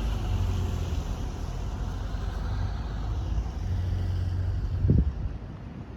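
Road vehicle passing on a snowy street, a steady noisy rumble with wind buffeting the microphone, and a brief thump about five seconds in.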